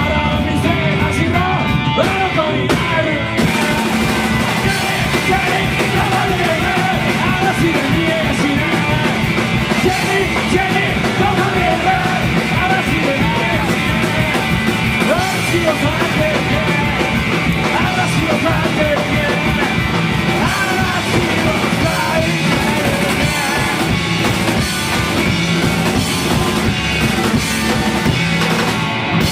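A live punk rock band plays loudly and steadily, with shouted vocals over the full band.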